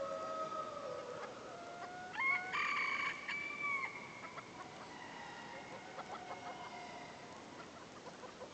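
Several roosters crowing over one another, drawn-out overlapping calls, with the loudest crow about two seconds in.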